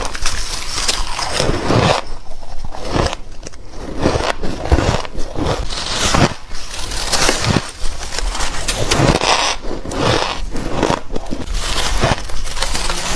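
Close-miked ice being bitten and crunched between the teeth: a continuous run of irregular crunching, crackling bites, several a second.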